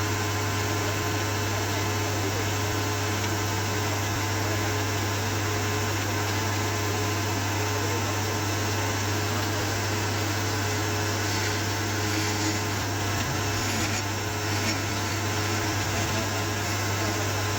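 A machine running steadily: a constant low hum under an even rushing noise, with no strokes or breaks.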